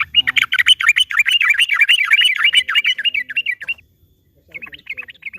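Yellow-vented bulbul (trucukan) giving a long, rapid chattering song of quick rising-and-falling notes, breaking off just before 4 s in and starting a second, shorter run about half a second later.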